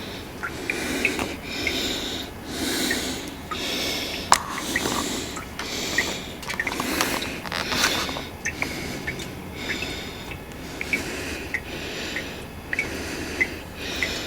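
A person breathing heavily close to the microphone, in loud even breaths about once a second, with short high ticks scattered between them.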